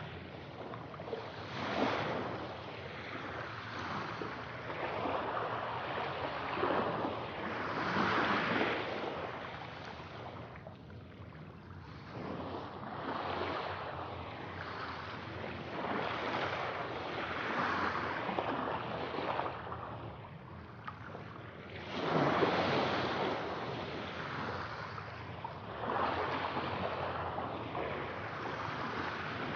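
Sea waves washing onto a shore in a steady, irregular rhythm. Each swell surges and then recedes every few seconds, and a larger one breaks about two-thirds of the way through. The recording is processed as 8D audio, panning around the listener.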